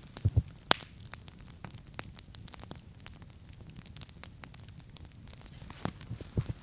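Wood campfire crackling and popping, sharp irregular snaps over a soft hiss, with one louder pop about a second in. A few dull low thumps come near the start and again near the end.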